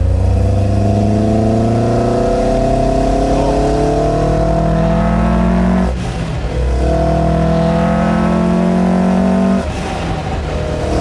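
Toyota Champ bakkie's swapped Dual BEAMS four-cylinder engine on individual throttle bodies, pulling hard under full throttle, heard inside the cabin. The revs climb steadily, break for a gear change about six seconds in, then climb again through the next gear, and the driver lifts off about a second before the end.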